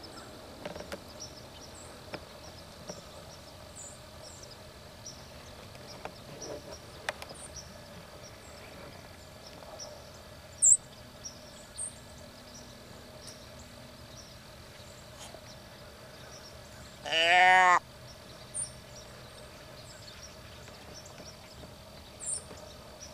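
Quiet outdoor morning ambience with scattered faint bird chirps, a single sharp click near the middle, and one loud drawn-out animal call, under a second long, about three-quarters of the way through.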